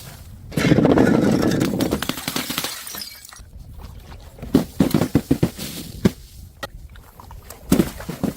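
Glass bottle shattering about half a second in, the breakage and falling shards running on for about two seconds. A string of separate sharp knocks and clinks follows near the end.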